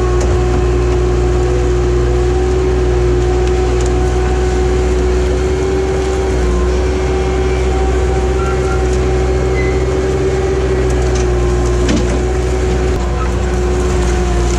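Skid steer engine running steadily under throttle, a constant rumble with a steady whine over it.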